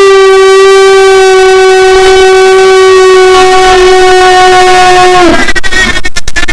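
A single loud, steady horn-like tone held for about five seconds, dropping in pitch as it cuts off, followed by a rapid stutter of clicks.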